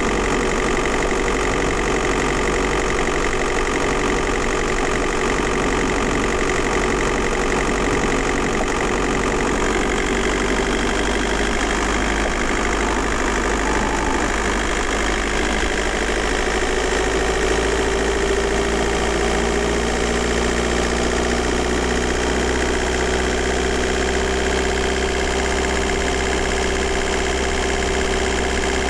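VW Golf Mk4 4motion's 1.9 TDI four-cylinder turbodiesel running steadily, with a slight change in engine pitch midway.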